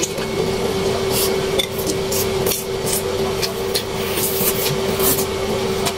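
Close-miked eating of sauce-glazed pork ribs: chewing and lip smacks as meat is bitten and pulled off the bone, coming as irregular wet clicks. A steady hum runs underneath.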